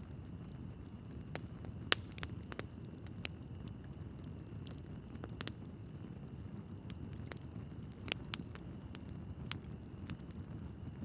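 Wood fire burning in a fireplace: a steady low rumble of flames with scattered sharp crackles and pops of the logs, the loudest pops about two seconds in and about eight seconds in.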